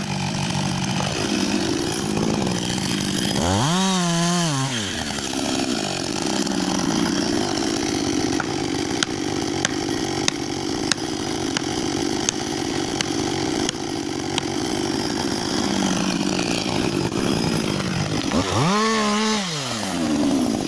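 Chainsaw running under load, cutting through wood, revving up and back down about four seconds in and again near the end, with scattered sharp ticks in the middle.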